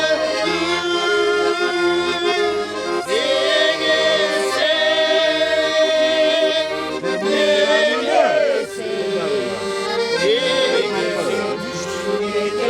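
Accordion playing a traditional folk tune in held, full chords that change every second or two.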